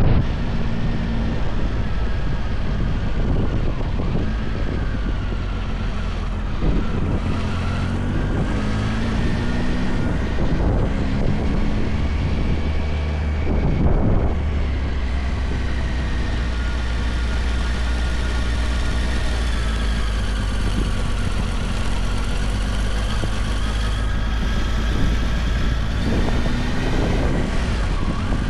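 Motorcycle engine running under way, its pitch slowly rising and falling with the throttle, over a steady rush of wind and road noise.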